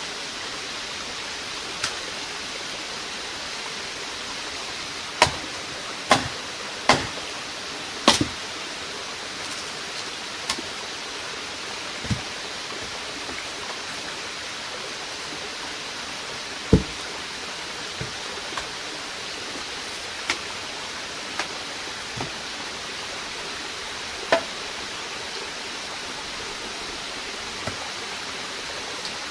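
Steady rushing noise like running water or rain, with scattered sharp knocks and clicks: four loud ones in quick succession about five to eight seconds in, then single knocks every few seconds.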